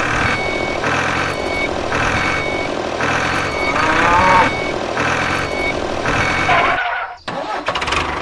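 Vehicle reversing alarm beeping at a steady rate of about one beep a second over a running engine, with a cow mooing about halfway through.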